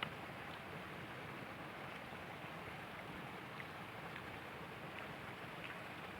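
Steady, faint rushing outdoor background noise, with a short click right at the start and a few soft ticks scattered through it.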